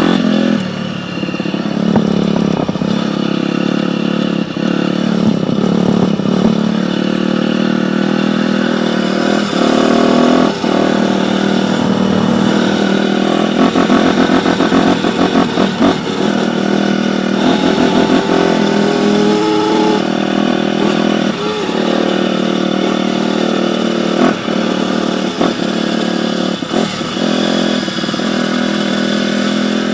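Dirt bike engine running and revving, with choppy throttle blips around the middle and a rising rev shortly after.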